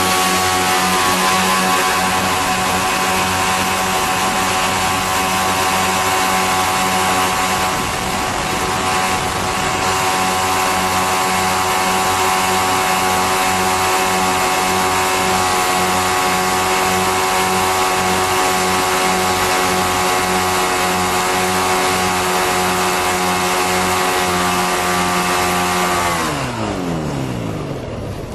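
A small propeller aircraft's piston engine running steadily with a buzzy tone, then slowing sharply near the end, its pitch falling fast as it winds down.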